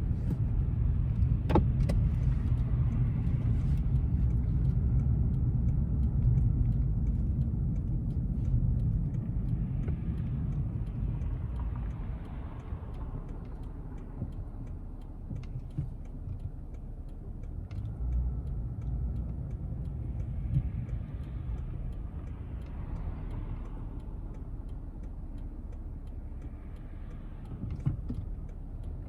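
Toyota Crown driving, heard from inside the cabin: a steady low rumble of engine and road noise. It is louder for the first dozen seconds, then eases off, with a few swells of hiss and a single click a second or two in.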